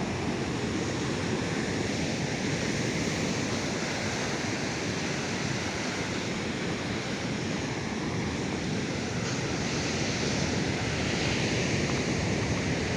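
Ocean surf washing on the beach as a continuous rush that swells and eases slowly, a little louder near the end.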